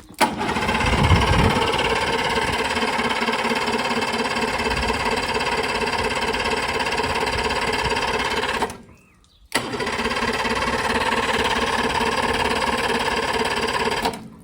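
Boat engine, its water intakes submerged for a test run out of the water, starts abruptly and runs steadily. About two-thirds of the way through it dies away, is silent for under a second, then starts and runs again.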